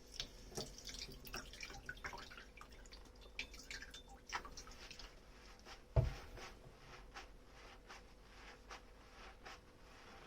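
Dishes being washed by hand at a kitchen sink: scattered water drips and light clicks of wet dishware, with one dull knock about six seconds in.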